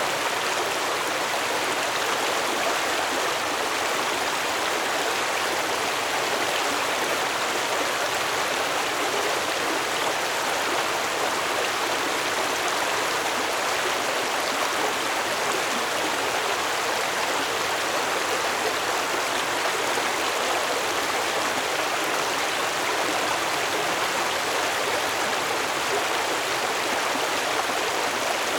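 Stream water flowing steadily over rocks, a constant rushing and babbling without breaks.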